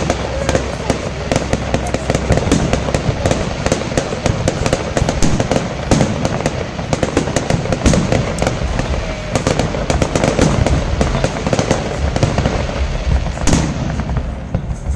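Aerial fireworks display: shells bursting in a rapid, unbroken run of bangs and crackles, several a second.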